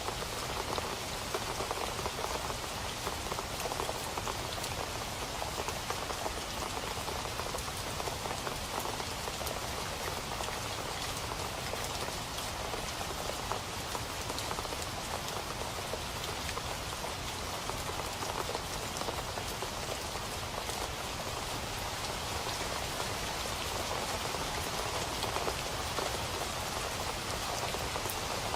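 Steady rain falling on a surface, an even dense patter of drops with no letup.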